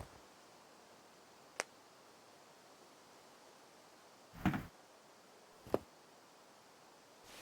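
Three separate knocks over a quiet background: a sharp click, a duller, heavier thump a few seconds later, then another sharp click.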